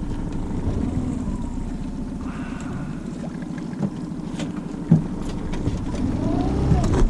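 Fishing boat's motor running steadily at low speed as the boat moves out to deeper water, with wind on the microphone. Two short knocks about four and five seconds in.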